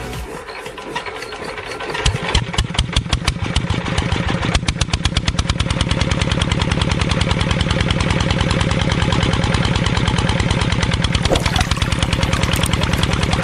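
The miniature DIY tractor's small engine starts about two seconds in. Its firing beats speed up over the next few seconds, then settle into a steady fast run.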